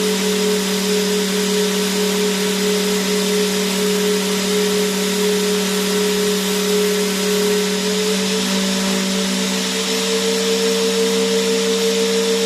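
Vacuum cleaner running steadily, a constant rushing hiss of air over a low motor hum and whine. The whine steps slightly higher in pitch about ten seconds in.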